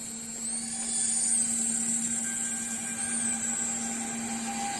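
Small electric motors and rotors of a toy RC aircraft running: a high-pitched whine with a steady low hum underneath, the whine rising and falling in pitch a couple of times as the throttle changes.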